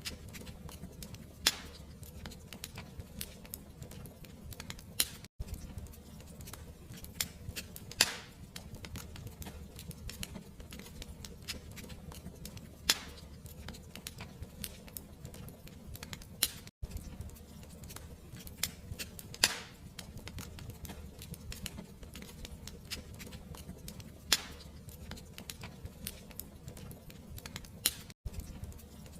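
Fireplace fire crackling: a steady low rumble with frequent small snaps and a louder pop every few seconds. The sound drops out for an instant three times.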